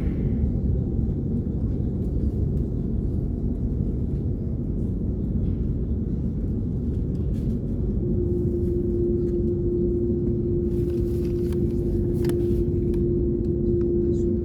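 Steady low cabin rumble inside an Airbus A330 on the ground before takeoff. A steady hum comes in about halfway through and holds.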